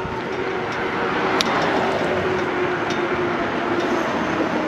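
Electric bike riding, with steady rolling and wind noise. A faint whine slowly drops in pitch, and there is a single sharp click about a second and a half in.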